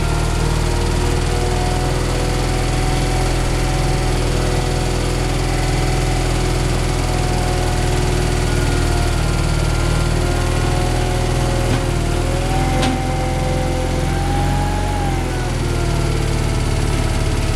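Gehl skid steer's engine running steadily, with a whining tone that rises slightly and falls back about two-thirds of the way through, and a single sharp click just before that.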